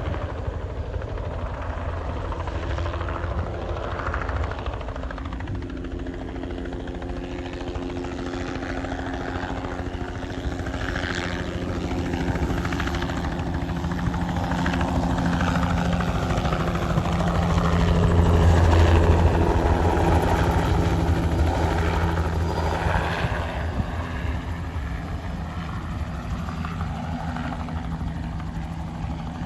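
Crop-spraying helicopter's rotor and engine passing by, growing louder to a peak about two-thirds of the way through, then fading.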